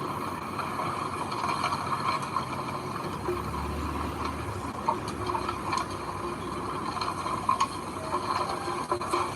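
Heavy machinery running with a steady clatter and scattered sharp clicks and knocks.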